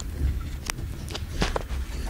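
Low rumble of a moving KTM Senandung passenger train heard from inside the carriage, with a few sharp clicks and knocks around the middle.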